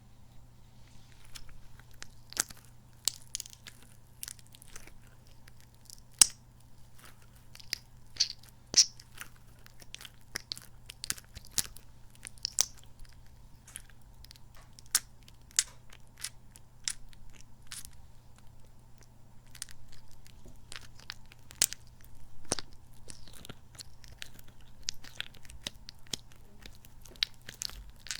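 Soft, sticky kidney-bean squishy toy squeezed and handled close to the microphone: irregular sticky clicks, squelches and small smacks, with a few sharper pops standing out.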